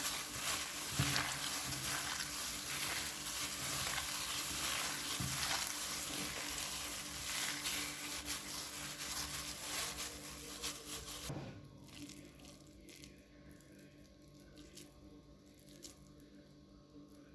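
Food sizzling and crackling in a hot pan, a dense hiss with many small pops; about eleven seconds in it cuts off suddenly, leaving a quiet background with a few light clicks.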